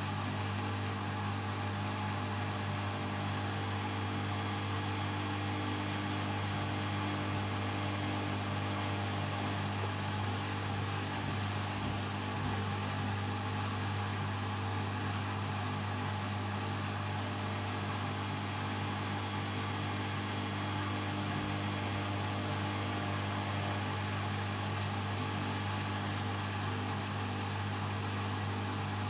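LG washing machine running in its suds-lock routine, giving a steady low hum that does not change.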